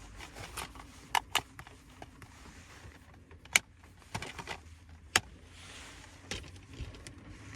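Plastic Blu-ray case and disc being handled: a handful of sharp plastic clicks spread apart, with light rustling between them.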